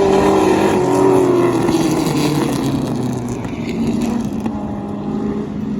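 Several V8 stock car engines at full throttle as a pack of race cars goes by, their overlapping engine notes sweeping down in pitch as they pass and fading a little near the end.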